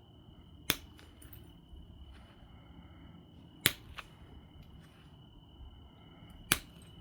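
Obsidian being knapped: three sharp clicks, each a flake snapping off the biface, about three seconds apart, with a smaller click just after the second.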